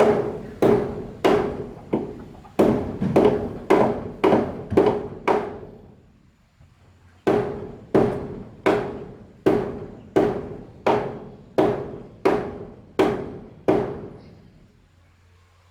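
Hammer blows on wood, struck steadily at about one and a half a second, each ringing briefly. There are two runs of about ten blows with a short pause between them.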